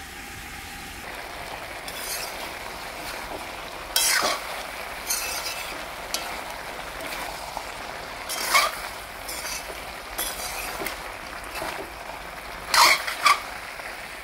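Pork and vegetables frying with a steady sizzle in an aluminium wok, with a metal spoon stirring and scraping against the pan in several short, louder strokes.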